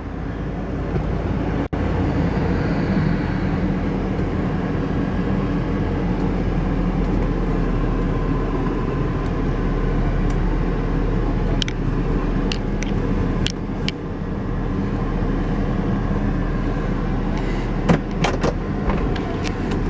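1970 Oldsmobile Cutlass convertible running, heard from inside the car as a steady low engine hum. A few sharp clicks come about twelve seconds in and again near the end.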